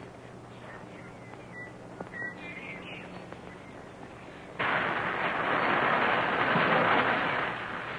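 Blasting charge set off by a fuse: a sudden loud roar a little past halfway through, lasting about three seconds and fading. Before it, only the faint hum and hiss of an old film soundtrack.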